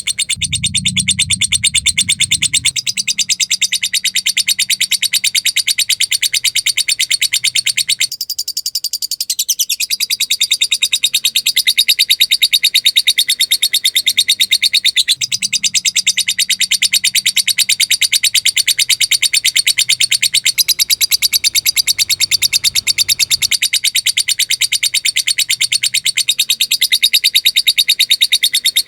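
Lovebird singing 'ngekek': a long, unbroken run of very rapid, high chirps repeating at an even fast pace, with a brief change in tone about eight seconds in.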